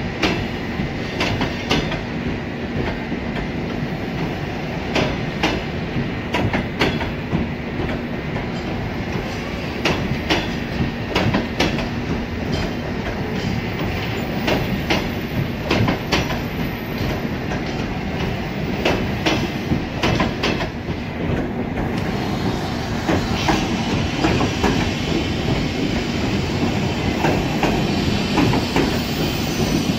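Double-decker passenger coaches of a departing train rolling slowly past, wheels clacking irregularly over rail joints and points with some light wheel squeal.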